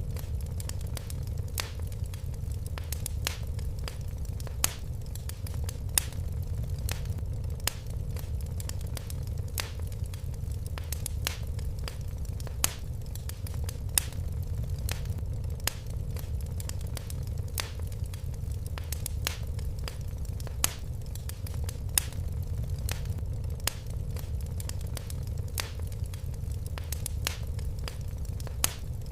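Wood fire crackling in a fireplace: irregular sharp pops and snaps, a couple a second, over a steady low rumble of the flames.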